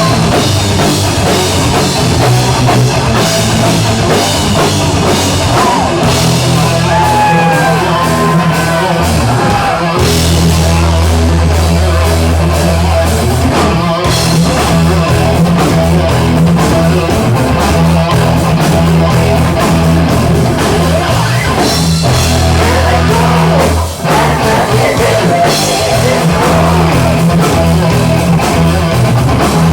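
A live heavy rock band playing loudly: electric guitar, bass and drum kit, with bent guitar notes a few seconds in and a brief drop in the sound shortly before the end.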